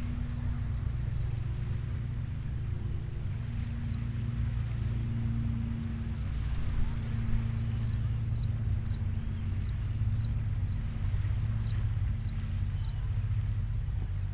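Small waves breaking on a sandy beach at low tide, a steady low rumble of surf with a faint wavering hum under it. In the second half, a run of short high chirps comes at about two to three a second.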